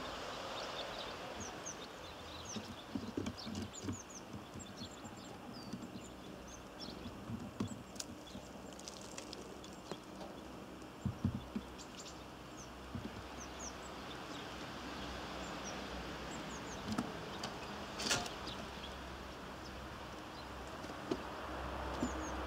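Small birds at a feeder giving scattered short, high chirps, with occasional knocks and one sharp click about 18 seconds in, over steady outdoor background noise.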